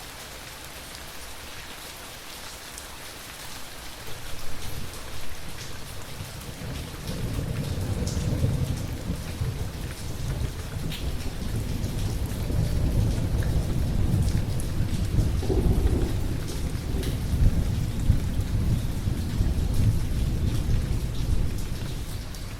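Steady rain with a long roll of thunder that builds about four seconds in, rumbles loudest through the middle and fades near the end.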